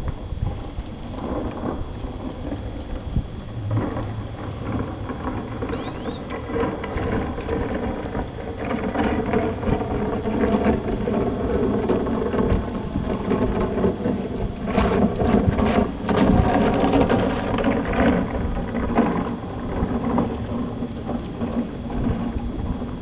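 Ice boat running over the ice: a continuous rumble and hiss with scattered knocks, building through the middle and easing near the end.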